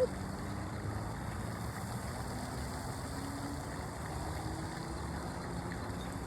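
Steady low rumble of a distant engine, its faint hum drifting slowly up in pitch.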